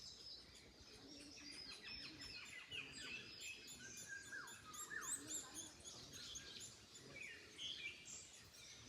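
Several songbirds singing and calling together, overlapping chirps and short whistled notes, many sliding down in pitch, over faint wind noise.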